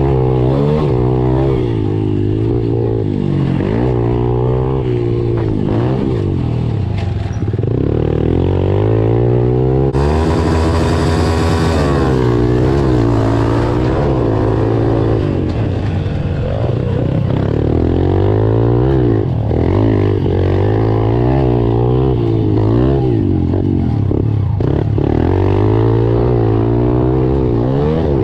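Pit bike engines revving up and falling back over and over as the bikes ride the motocross track. One goes by louder and brighter from about ten seconds in, for a few seconds.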